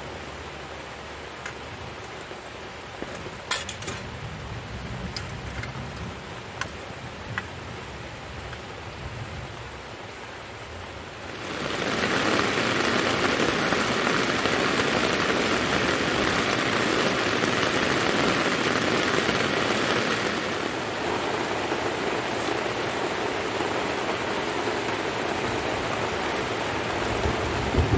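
Rain on a tent, lighter at first with scattered single drops hitting, then suddenly turning into a loud, steady downpour about eleven seconds in. A low thunder rumble begins right at the very end.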